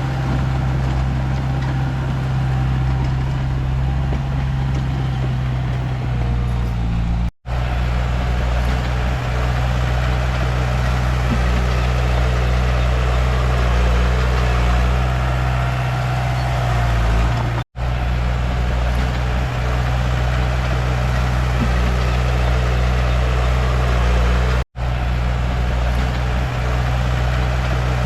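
Komatsu D31P crawler bulldozer's diesel engine running steadily, its low drone shifting slightly in pitch now and then. The sound drops out abruptly for a split second three times.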